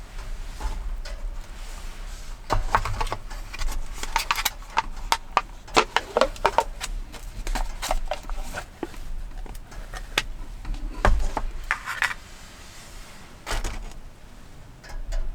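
Irregular clicks, knocks and short clinks of small objects being handled, thickest in the middle stretch, over a steady low rumble.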